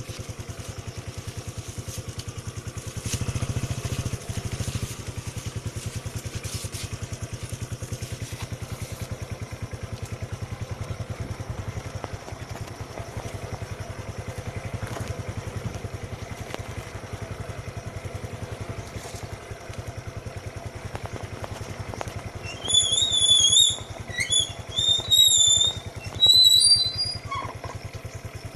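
Motorcycle engine running steadily while riding, a little louder for a couple of seconds about three seconds in. Near the end, a run of short, high-pitched chirps is the loudest sound.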